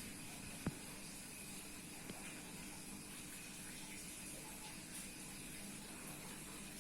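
Faint steady hiss with a single sharp click a little under a second in and a fainter tick about two seconds in.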